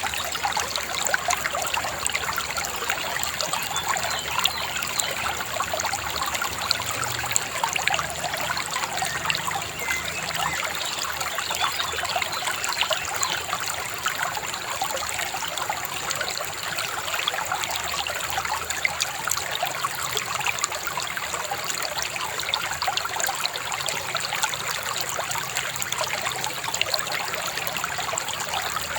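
Shallow river babbling and trickling steadily.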